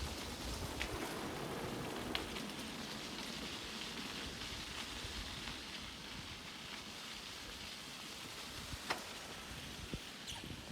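Steady hiss of a bicycle ride: tyres on the road and moving air over the phone's microphone, with a few sharp ticks.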